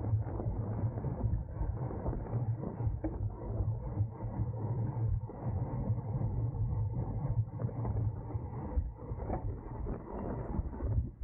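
Onboard sound of a racing bicycle at speed: wind rumble on the camera's microphone, with irregular rattles and clicks from the bike.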